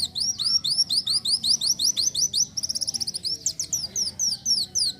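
Kolibri wulung sunbird singing a fast run of high, thin, downward-sweeping notes, about six a second, broken by a quick rattling trill about halfway through. The song stops abruptly near the end.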